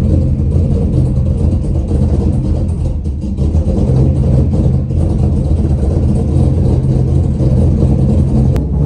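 Car engine running steadily at idle just after being started, with a deep, even exhaust rumble.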